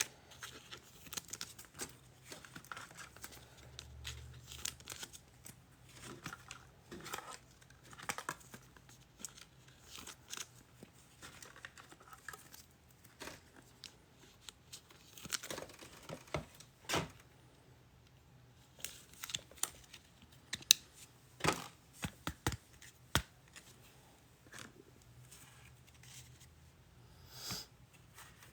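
Foil trading card pack wrappers being torn open and crinkled, and the cards inside handled: irregular rustling, crinkling and sharp little clicks, busier about halfway through.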